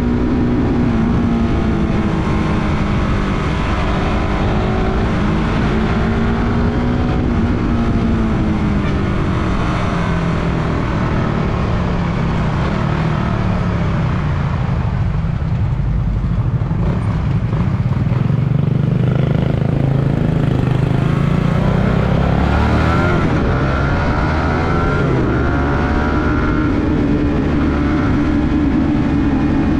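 Suzuki Raider 150 Fi motorcycle's single-cylinder four-stroke engine under way, its pitch rising and falling with throttle and gear changes. About halfway through it drops low, then climbs sharply again a little after twenty seconds in.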